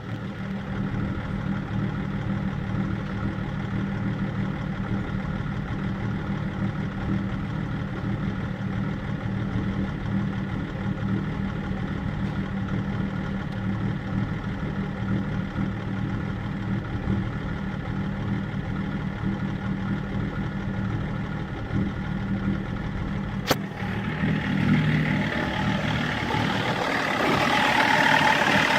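BMW E39 530d's 3.0-litre inline-six turbodiesel idling steadily, an idle the owner calls rough. About 23 seconds in there is a sharp click, and then the sound changes: the low engine hum fades and a louder hiss rises near the end.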